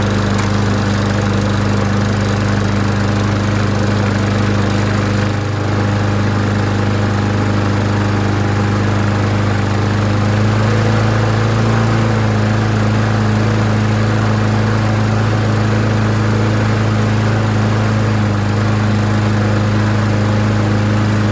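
Briggs & Stratton 190cc lawn mower engine running steadily, just started on the first pull, its carburettor freshly cleaned and rebuilt. It dips briefly about five seconds in and runs slightly faster from about ten seconds on.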